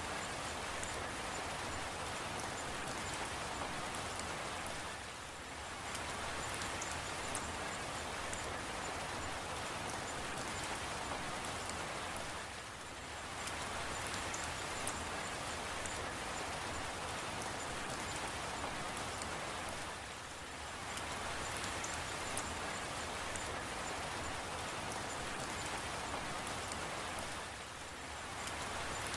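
Steady rain falling, an even hiss of drops that dips briefly in level about every seven and a half seconds.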